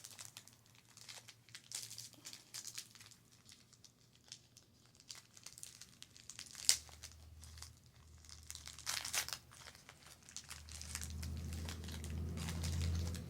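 Snack packaging crinkling and tearing as it is handled and opened, with scattered sharp crackles and a couple of louder rustles. A low steady hum builds in the last few seconds.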